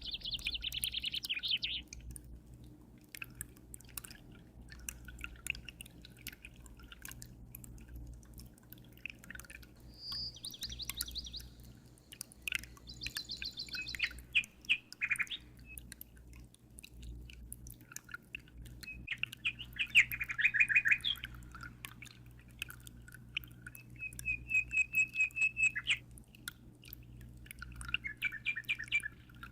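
Birds chirping in short, rapid trills every few seconds, the loudest about two-thirds of the way through, over faint water dripping and a steady low hum.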